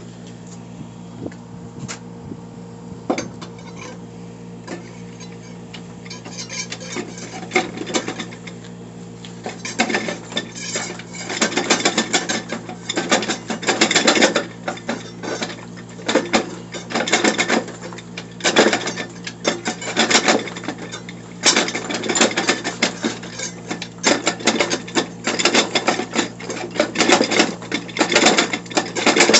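Rapid, irregular metallic clicking and rattling as TH350 automatic transmission parts are handled and fitted, starting about six seconds in and growing louder, over a steady low hum.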